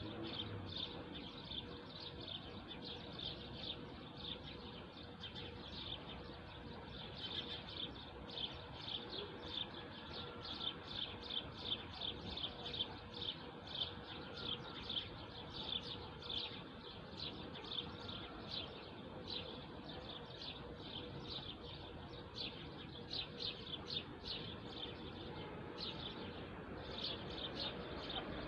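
Birds chirping: a steady run of short, high chirps, several a second, busiest through the middle and briefly thinning near the end, over background noise.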